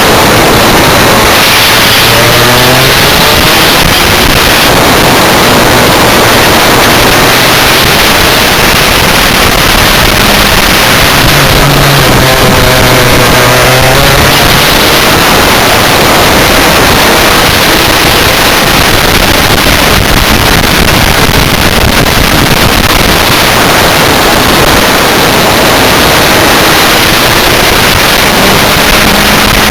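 Rotax Max 125 two-stroke kart engine running hard at racing speed, loud and harsh throughout. Its pitch dips and climbs again a few times as the kart brakes and accelerates through corners.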